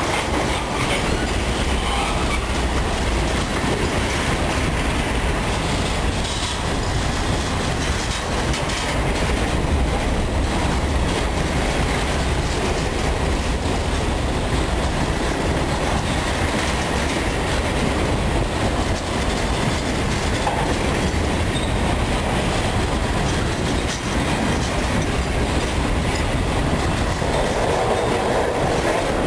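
Freight train of covered grain hopper cars rolling past in a steady, continuous rumble, wheels clattering over the rail joints.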